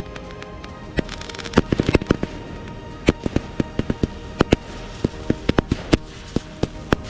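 Fireworks going off: a rapid, irregular series of sharp bangs and cracks, thickest about two seconds in.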